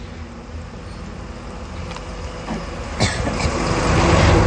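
A motor vehicle passing on the road: a low rumble and noise that grow louder toward the end, with a sharp click about three seconds in.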